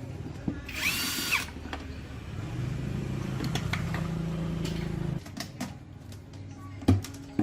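Power drill running in short bursts: a brief high whine about a second in, then a longer, lower run of about three seconds that cuts off suddenly, followed by a few small clicks.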